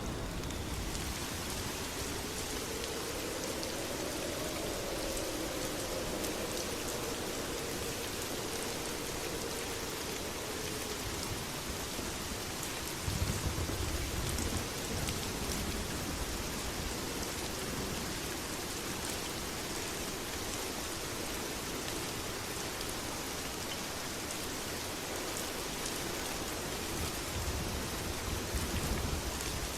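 Steady heavy rain falling, with a low rumble of thunder about halfway through and another near the end.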